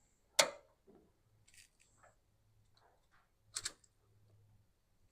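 Two sharp clicks about three seconds apart, from the ignition switch being turned on, with faint handling noises between; no starter or engine sound.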